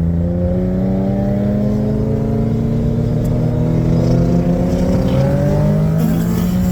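Twin-turbo Infiniti G37's V6 engine under full-throttle acceleration, loud and steady, its pitch rising continuously as it pulls hard through a gear.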